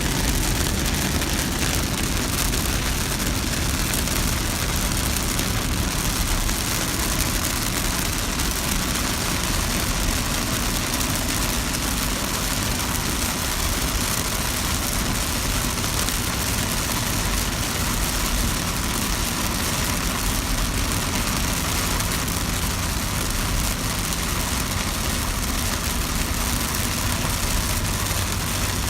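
A car in steady rain: a constant hiss of rain over the low rumble of the car's engine and tyres on the road.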